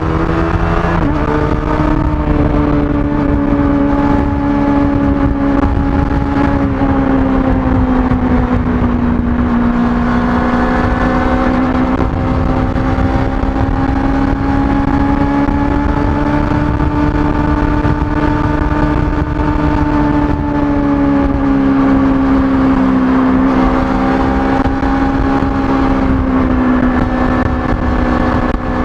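Kawasaki ZX-25R's 249 cc inline-four running at high revs through its stock exhaust while riding. The pitch drops about a second in, then holds fairly steady with slow rises and dips.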